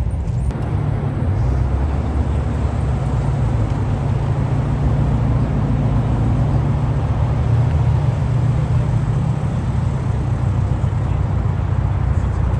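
Car engine running steadily at low revs, a low continuous rumble.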